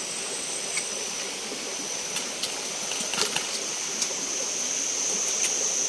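Forest insects buzzing with a steady high, thin tone that grows louder toward the end, over an even rushing hiss like a stream. A few light clicks come in the middle.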